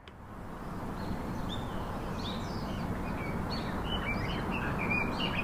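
Small birds chirping repeatedly over a steady outdoor background hiss, fading in over the first second.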